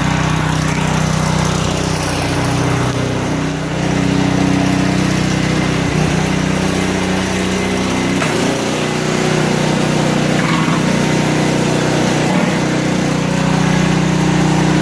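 A small gas-engine pressure washer running steadily, its jet of water hissing onto concrete as it strips grime. The engine note shifts briefly about eight seconds in.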